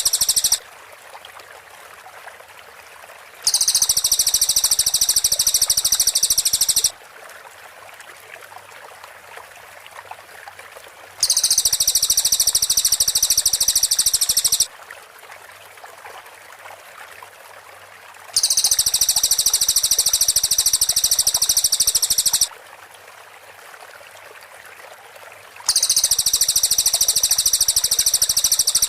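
Cililin song: very high, dense rapid-fire trills in bouts of three to four seconds, repeating about every seven seconds, with a steady faint hiss like running water between bouts.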